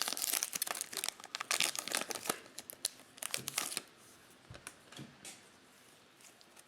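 Plastic cellophane wrapper of a trading-card pack crinkling as it is torn open and handled: dense crackling for about four seconds, then only a few faint taps.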